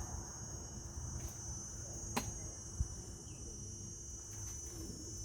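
Insects chirring steadily on one high note, with a sharp click a little after two seconds and a short knock near three seconds.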